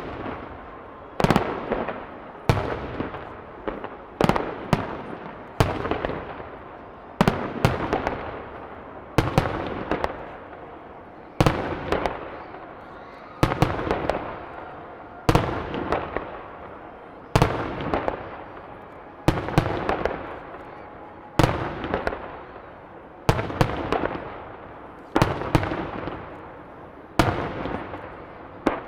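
Aerial firework shells bursting in quick succession, a sharp bang about every one to two seconds, each trailing off in a rumbling echo before the next.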